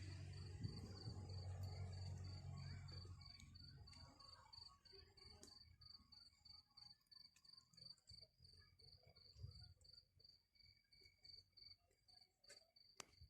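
A cricket chirping steadily in a high, even pulse, about three chirps a second, over near silence. A low hum is heard at first and fades out after about three seconds.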